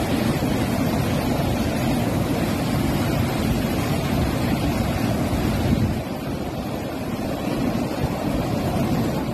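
Desert flash-flood torrent (sayl): floodwater rushing in a loud, steady wash that eases slightly about six seconds in, with wind buffeting the microphone.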